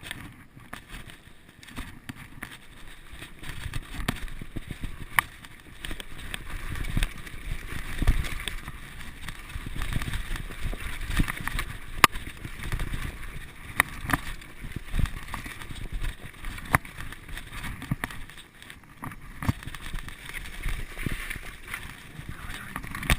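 Waterfall rushing steadily, with an uneven low rumble and scattered sharp clicks on top.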